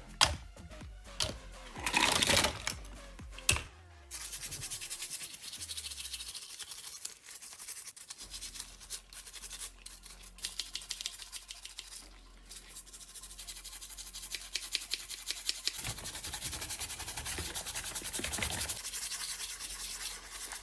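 Fast, steady rubbing strokes, as in hand-sanding or scrubbing a small part of a scale model, after a few sharp knocks and clatters in the first four seconds.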